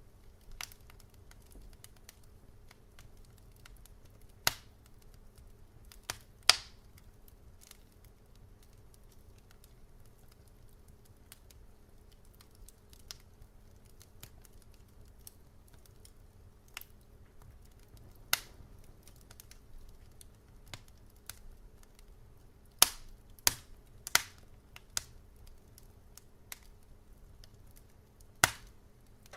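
Wood fire crackling in a fireplace: scattered sharp pops and snaps, with a quick cluster of several about two-thirds of the way through, over a faint low steady hum.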